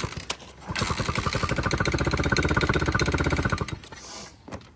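Chinese dirt bike engine catching and running for about three seconds with a fast, even firing beat that builds in loudness, then cutting out abruptly. The engine will start but won't stay running.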